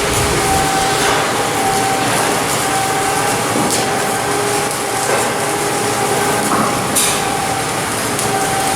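Steady shipyard machinery noise, a dense continuous din with a steady whine, broken by a few sharp metallic clicks.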